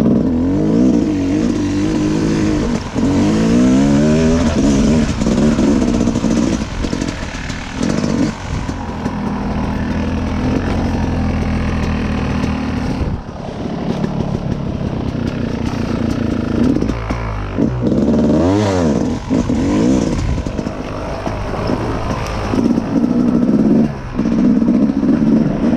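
Dirt bike engine being ridden hard, revving up and dropping back again and again as the throttle opens and closes and it shifts, with a sharp rev-up and fall a little past the middle.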